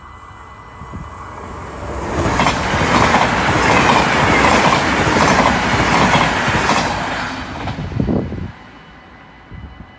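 An electric double-deck passenger train passing through a level crossing. Its noise builds over a couple of seconds and is loud for about four seconds, with the wheels clicking over the rail joints, then it falls away quickly near the end.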